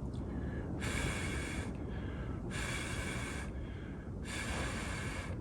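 Three short hissing bursts of about a second each, evenly spaced, over a low steady workshop background.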